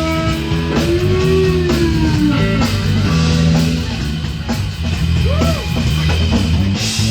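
A live band playing: a guitar lead with notes that bend up and arch over, above steady bass and drums.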